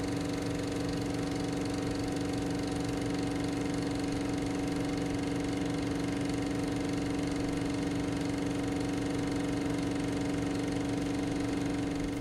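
An engine running steadily at idle: a constant, even hum.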